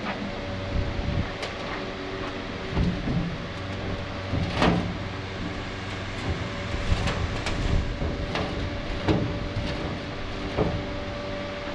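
An engine running steadily with a low hum, with sharp knocks at irregular intervals, about eight of them, typical of metal being struck during truck chassis repair work.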